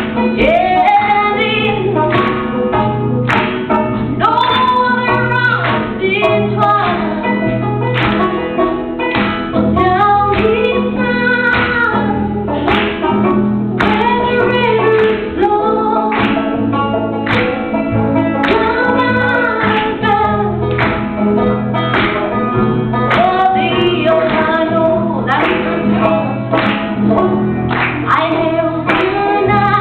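A woman singing a campfire-style song to a strummed acoustic guitar, with an even, steady strumming rhythm under the voice.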